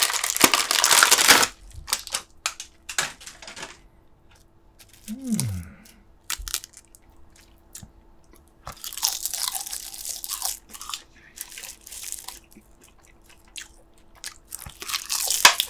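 Close-miked eating sounds: crunchy chewing and biting with scattered small clicks, loudest in the first second or so, again in the middle and near the end, with a short falling hum about five seconds in.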